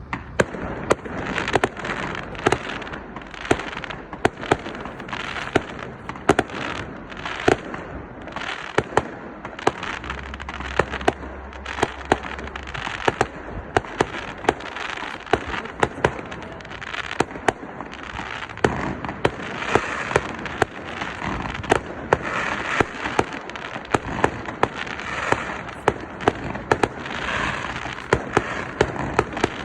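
Fireworks display: a rapid, irregular string of sharp bangs, a few a second, over a continuous hiss of noise.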